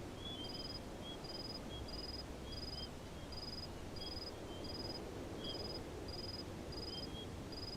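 Outdoor ambience of insects chirping: short high trilled pulses repeat about every two-thirds of a second, with smaller high chirps between them, over a low rumble of background noise.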